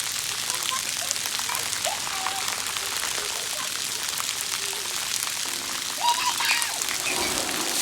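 Water spraying and pattering from splash-park jets, a steady hiss, with children shouting and squealing, loudest about six seconds in.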